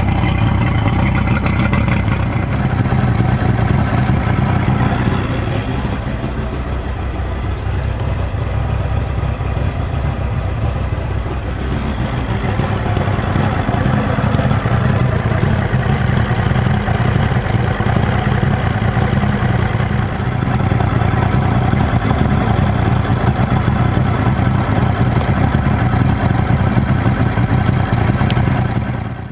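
2004 Mercury 225 HP two-stroke outboard engine running steadily, dipping slightly in loudness for a few seconds about six seconds in and again briefly about twenty seconds in.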